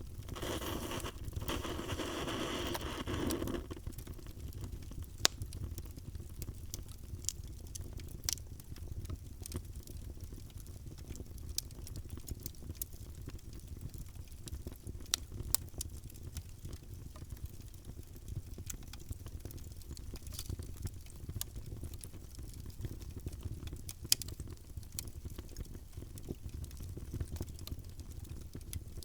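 Wood fire in a fireplace crackling: a steady low rumble of the flames with scattered sharp pops, a few of them louder. A rushing hiss rises over it for the first three seconds or so.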